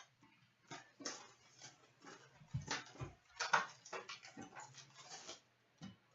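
Rustling and crinkling of packaging as a sealed box of hockey cards is unwrapped and opened, in irregular short crackles.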